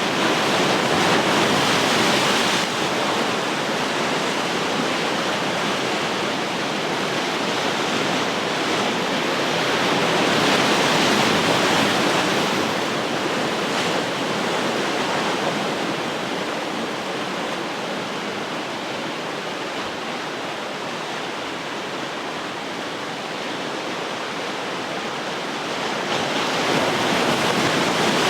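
Ocean surf: waves breaking and washing on the shore, a steady rushing that swells twice and eases before building again near the end.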